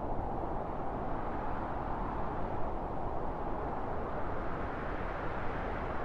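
Wind blowing steadily: a constant low rushing noise with no gusts or breaks.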